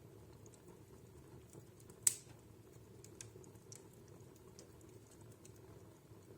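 Wood fire burning in a home fireplace, crackling with scattered small pops and one sharp, louder crack about two seconds in, over a low steady rumble of the flames.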